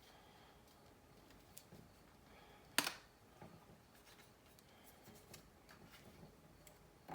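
Faint clicks and light scraping of a pry tool working around the plastic back cover of a Samsung Galaxy Note 3, with one sharper click about three seconds in as a clip lets go.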